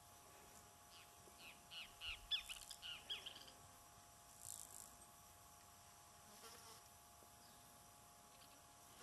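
Faint bird chirps: a quick run of about ten short descending notes, then a few softer ones, over a faint steady hum.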